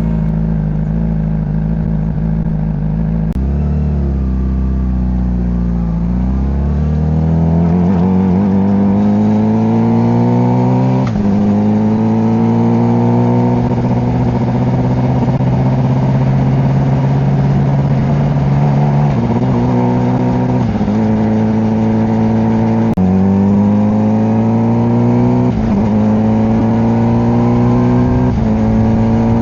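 Honda CBR600RR's inline-four engine accelerating through the gears. Its pitch climbs steadily and drops sharply at each of several upshifts.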